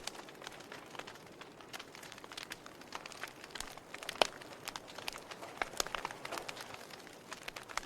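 Wood fire crackling: irregular sharp pops and snaps over a steady hiss of burning, with one louder pop about four seconds in.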